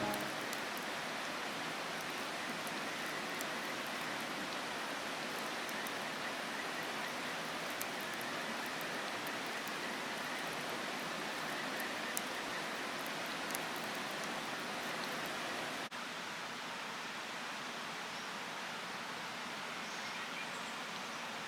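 Steady rushing water-like noise with a few faint ticks, dropping slightly in level about sixteen seconds in.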